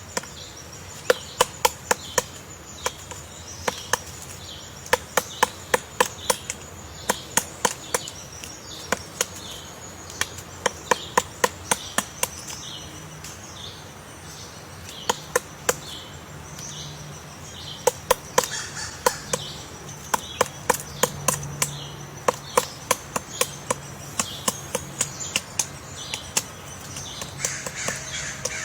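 Woodpecker pecking into wood to dig out a nest hole: sharp, irregular strikes in quick runs of several blows, with short pauses between runs.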